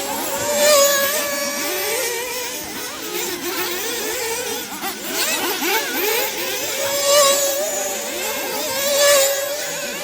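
Several 1/8-scale nitro off-road RC buggies racing, their small two-stroke glow engines revving up and down over one another in overlapping whines, with loud rises about a second in, around seven seconds and around nine seconds.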